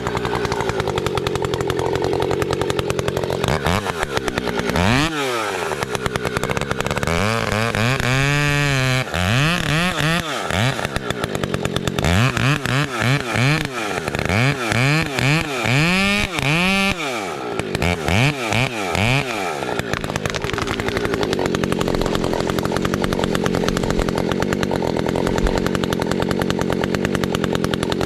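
Two-stroke chainsaw running, its engine speed swinging up and down over and over for much of the time, then running more steadily near the end.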